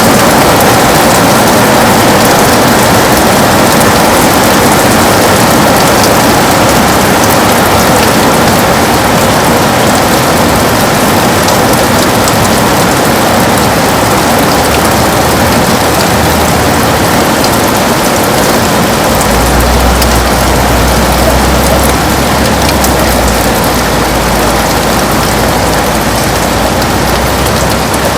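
Heavy rain falling on a window glass, a steady, even hiss. A low rumble comes in about two-thirds of the way through and holds for several seconds.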